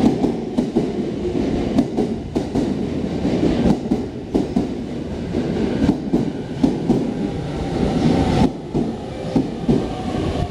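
Shonan-Shinjuku Line electric commuter train rolling along the platform: a steady low rumble with the wheels clacking over rail joints again and again.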